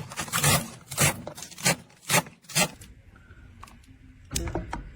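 About five sharp cutting strokes, roughly half a second apart, as food is cut in the kitchen, then faint clicks and a low rumble near the end.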